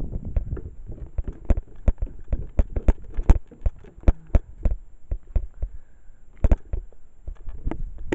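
Footsteps of a person walking outdoors, a quick irregular series of sharp knocks, with low wind rumble on the microphone.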